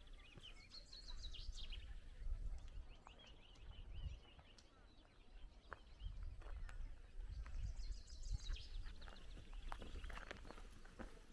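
Small birds singing, with repeated high chirps and quick trills, some falling in pitch, over a low steady rumble. A few light taps come near the end.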